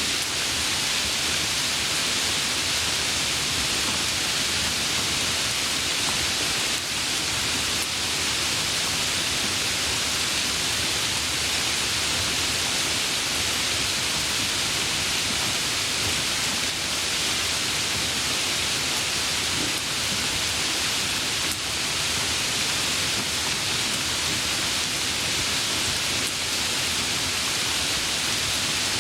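Steady, even rain hiss with no separate drops or thunder standing out.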